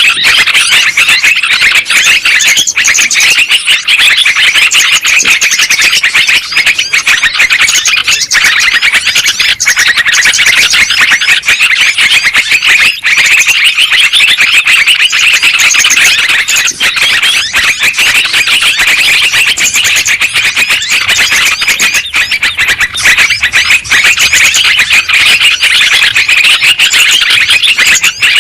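Yellow-vented bulbul (trucukan) song: rapid, continuous chattering with no pauses, loud and dense.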